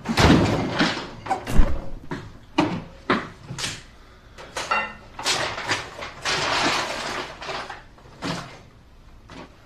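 A run of short knocks, clatters and rustles, like a door and things being handled and set down, with a heavier thump about a second and a half in.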